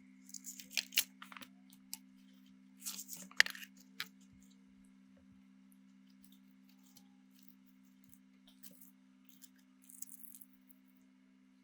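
Bursts of small clicks and scraping, as from handling small hard parts, over a steady low electrical hum.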